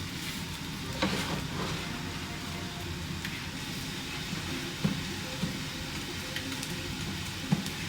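Food sizzling steadily in a hot pan as it is stirred, with a few sharp knocks of a utensil against the pan, about a second in, around five seconds in and near the end.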